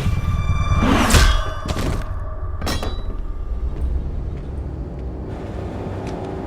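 Film sound effects of metal clanging with a ringing tone: a loud strike about a second in and two more before the three-second mark. Under them a steady low rumble of machinery runs on.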